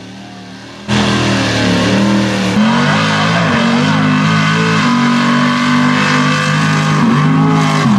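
Off-road mud truck engines revving hard, loud and continuous, with a dense rush of noise over the engine; it cuts in suddenly about a second in.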